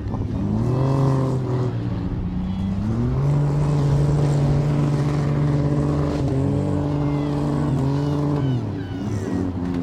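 Demolition derby car engines revving up and down repeatedly, the pitch rising, holding, then falling several times.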